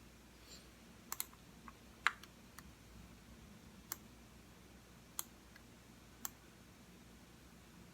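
Computer mouse buttons clicking, about nine separate clicks at uneven spacing: a quick double click about a second in, the loudest click about two seconds in, then single clicks a second or so apart.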